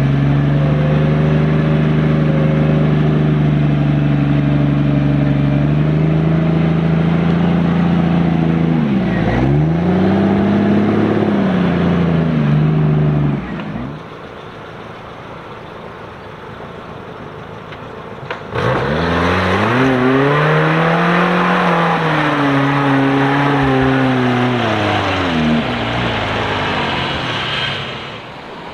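Off-road 4x4 engines working through mud. A steady engine note rises and falls in revs, goes quieter for a few seconds about halfway, then another engine revs up and down repeatedly.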